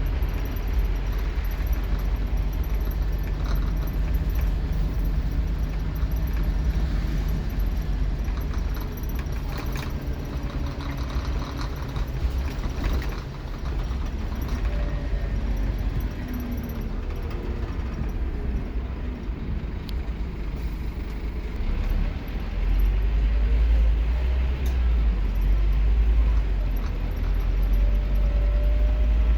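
Scania K230UB Omnilink bus's 9-litre five-cylinder engine running under way, heard from inside the bus, with light rattling of fittings. The engine drone eases off in the middle, then grows clearly louder about three-quarters of the way through as it pulls harder.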